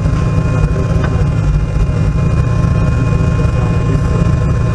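Turbocharged 2.0 fuel-injected engine of a Lada VFTS rally car idling steadily, a deep even rumble heard from inside the cabin, with a thin steady whine above it.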